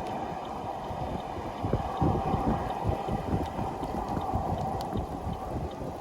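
Gusty wind buffeting the microphone, an uneven low rumble over a steady hum.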